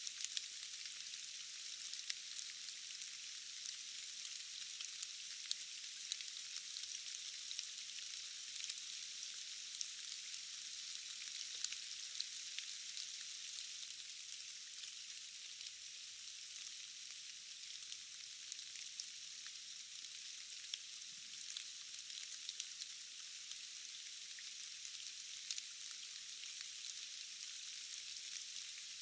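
Steady rain in a forest, a fine even hiss with many scattered individual drop ticks and no low rumble.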